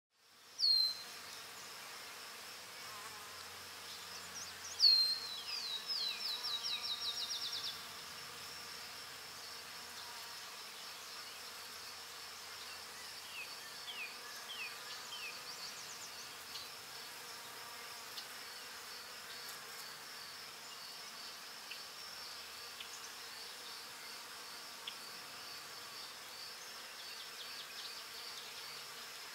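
Songbirds singing outdoors. A sharp falling note comes just under a second in, then about five seconds in a loud trill of quickly repeated falling notes lasts about three seconds. A thin, high, evenly pulsing chirr goes on under the rest.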